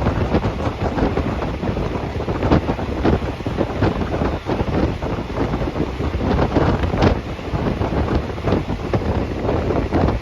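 Moving passenger train: a steady rush of wind buffeting the microphone, with frequent short knocks and rattles from the running carriage.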